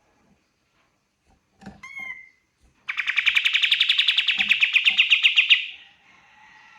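Kapas tembak songbird singing: a short call about two seconds in, then a loud, rapid rattling trill of about ten notes a second lasting nearly three seconds, trailing off into fainter notes near the end.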